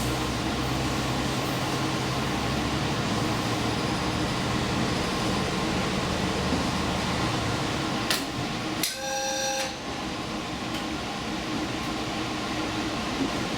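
Express train running along the line, a steady rumble of wheels and motor heard from the front of the train. A click comes about eight seconds in, followed by a short two-tone signal lasting under a second.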